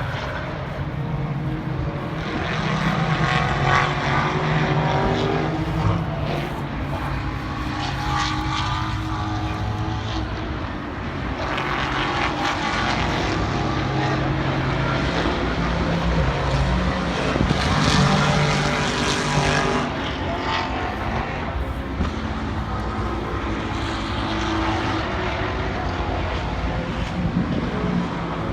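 Race car engines at speed on a circuit, swelling loud as cars pass about four times, with engine pitch stepping up and down through gear changes in between.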